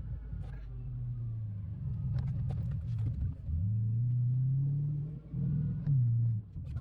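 Chevrolet Silverado's 8.1L big-block V8 running under load, its pitch climbing steadily and then dropping suddenly twice near the end as the Allison automatic shifts, with scattered sharp clicks and knocks over it.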